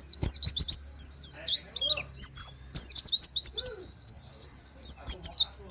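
Pleci (white-eye) singing a fast, unbroken run of high, sharply falling whistled notes, with a brief stretch of short level chirps near the middle: rapid-fire 'nembak' song.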